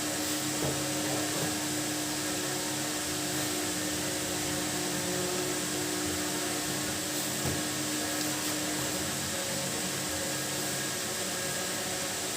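Steady hum of a small motor, with one clear tone and a hiss that hold even and unchanging throughout.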